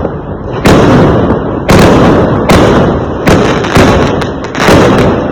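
Fireworks bursting: about six loud booms roughly a second apart, each with a rumbling tail that runs into the next.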